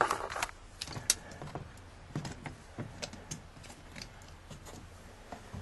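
Scattered sharp clicks and light knocks, the loudest right at the start and about a second in, with softer ones through the rest.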